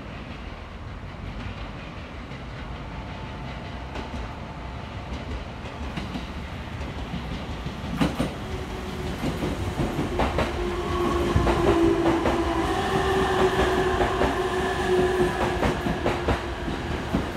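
A 15-car Ueno-Tokyo Line electric train arriving at a station platform: its rumble grows steadily as it approaches, then its wheels clack over rail joints from about eight seconds in, and a steady high whine sets in from about eleven seconds as the cars run past.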